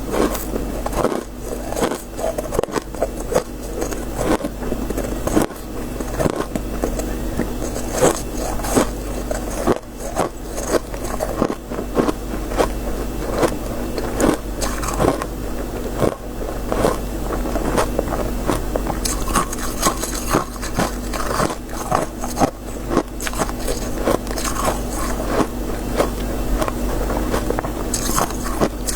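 A person biting and chewing crisp freezer frost, with dense, irregular crunches throughout over a steady low hum.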